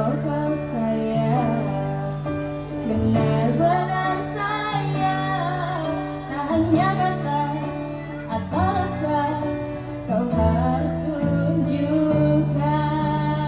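A song: a woman's voice sings a wavering melody over instrumental accompaniment with steady bass notes.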